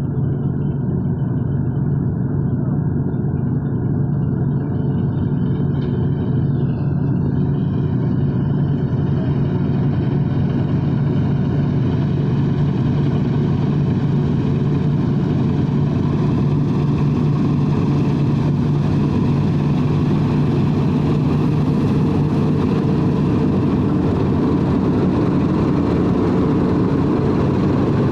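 A wheat-harvesting machine's engine running steadily with a low hum. Its higher clatter grows in over the first ten seconds or so, as if the machine comes closer.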